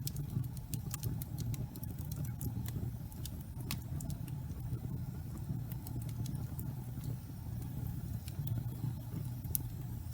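Wood fire burning in a fireplace: a steady low rumble of the flames with frequent, irregular sharp crackles and pops from the burning wood, a few of them louder.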